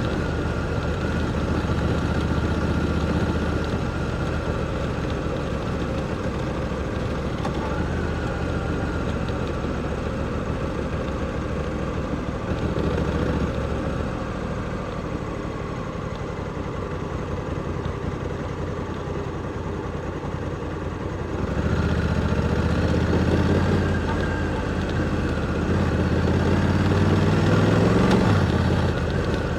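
Honda Africa Twin 1100's parallel-twin engine heard from the bike at low speed: a steady low running note that goes quieter and rougher through the middle, then pulls harder from about two-thirds in, revs rising, before easing off near the end.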